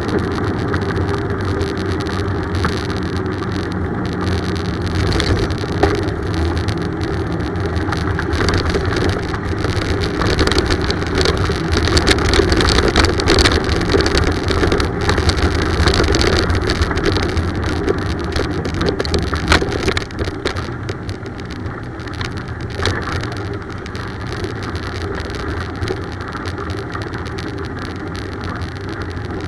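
Steady rushing wind and road noise from riding a bicycle, heaviest in the low end, with scattered small clicks and rattles. It eases off somewhat about two-thirds of the way through.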